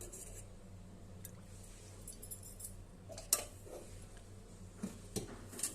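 A few light, scattered clinks and taps of kitchen utensils against cookware, the sharpest about three seconds in, over a steady low hum.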